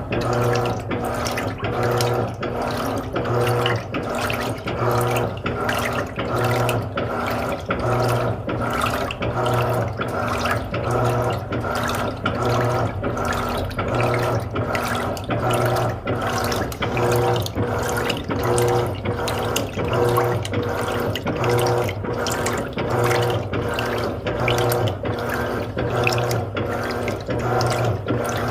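Electrolux Essential Care LED 15 top-loading washing machine agitating a load: water churns and sloshes while the motor hum and a mechanical clicking swell and fade in a steady rhythm, about once a second, as the drive reverses back and forth.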